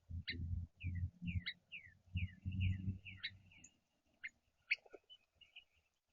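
Small songbirds chirping: many short, quick notes, each sweeping downward, several a second. Louder bursts of low rumbling and knocking come and go in the first three seconds.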